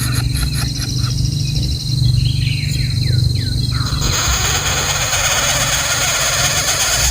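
A bird gives a few short, falling chirps two to three seconds in, over a steady low hum. From about four seconds in, a steady hiss with a high, even buzz takes over.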